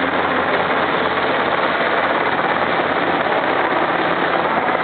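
Loud, steady engine noise that holds the same pitch throughout, with no rhythm or change in speed.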